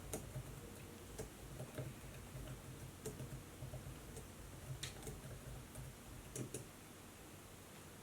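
Light, irregular clicks and soft taps of desk work on a laptop and notebook. They stop about two-thirds of the way through, leaving a faint steady hiss.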